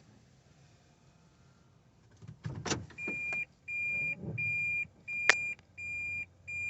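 A car's dashboard warning beeper sounds a string of high, even beeps, about three every two seconds, starting a little before halfway. It comes just after a few knocks and a thump, and a sharp click falls partway through the beeping.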